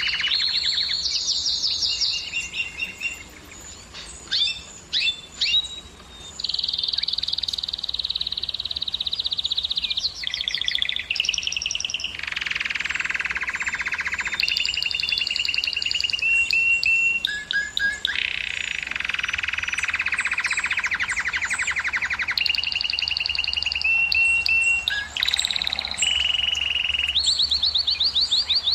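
Domestic canary singing a long, continuous song made of rapid trills, each held for a second or two before switching to a new pitch. A short stretch near the start breaks up into scattered single notes.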